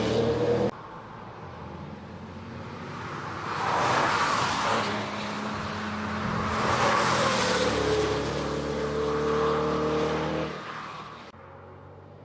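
Mid-engine Chevrolet Corvette prototype running hard on a race track, its engine note swelling and fading as it passes, then rising steadily in pitch as it accelerates. The sound cuts off abruptly about a second in and again near the end, where the footage is edited between clips.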